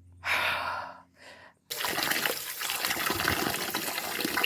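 Tap water running, starting abruptly a little under two seconds in, as the freshly picked plums are washed. A short burst of noise comes first.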